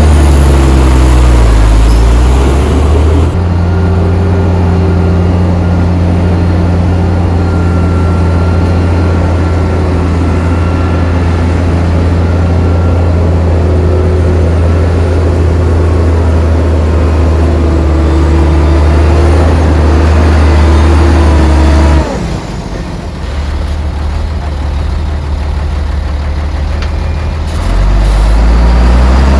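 Heavy diesel engine of earthmoving machinery running hard. The revs shift at the start, then hold steady and high for a long stretch. About three-quarters through the engine drops to a lower, quieter pitch, and it revs back up near the end.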